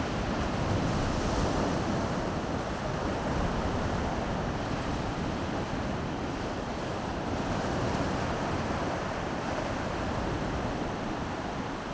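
Baltic Sea surf washing steadily onto the shore, an unbroken wash of waves that swells and eases slightly, with low wind rumble on the microphone.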